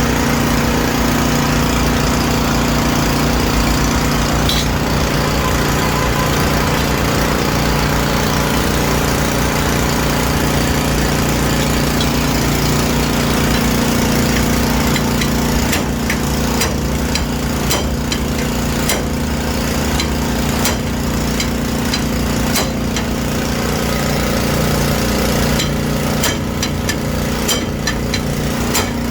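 A steady motor drone running throughout. From about halfway through, a run of sharp, irregular taps joins it, from hammering on a car's sheet-metal panels in dent repair, with a quicker cluster near the end.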